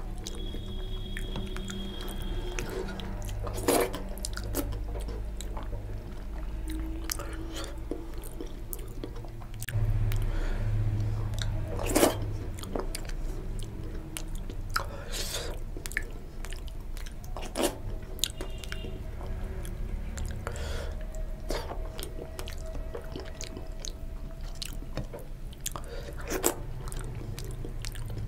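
Close-up mouth sounds of a person eating rice-and-lentil khichuri with fried hilsa fish: chewing, with irregular wet clicks and smacks. A low steady hum runs underneath.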